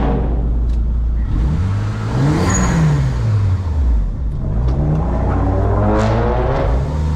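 Car engine revving up and back down twice, its pitch climbing and falling each time over a steady low rumble.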